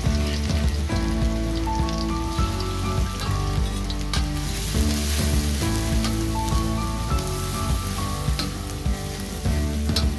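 Minced garlic sizzling as it fries in hot oil in a stainless steel wok, stirred with a metal spatula, with a few sharp clicks. Background music plays throughout.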